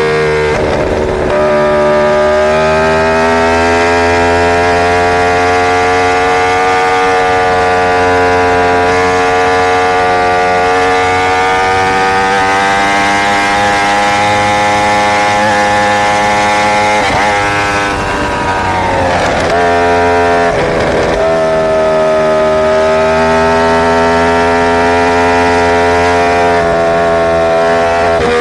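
Inline-four superbike engine running at a steady, high rpm under way. Its pitch dips and recovers a few times past the middle, then holds steady again.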